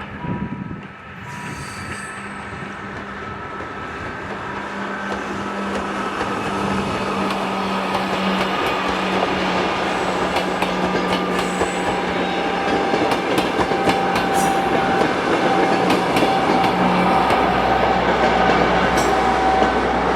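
Museum passenger train running past at a level crossing, growing steadily louder as it nears, its wheels clattering over the rails. A wheel squeal rings out toward the end.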